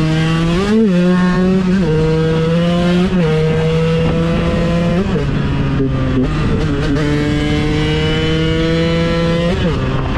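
KTM 125 EXC supermoto's single-cylinder two-stroke engine running under way, its note climbing slowly and then dropping sharply several times.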